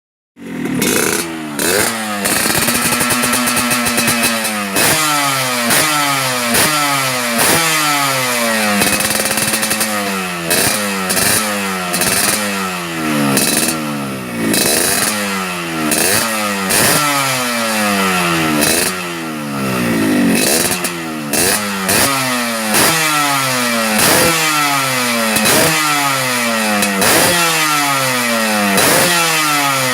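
Yamaha RX-King's two-stroke single-cylinder engine through an aftermarket under-belly racing exhaust, revved again and again in quick throttle blips, each rev falling straight back. Two longer held revs come near the start and about ten seconds in.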